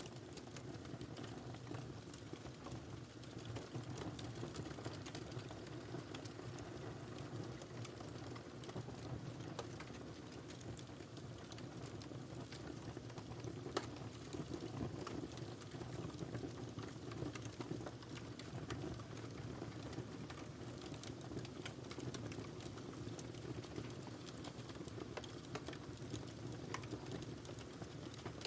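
Wood fire crackling steadily: a low, even rush of burning with many small pops and snaps scattered throughout, and one sharper pop about halfway through.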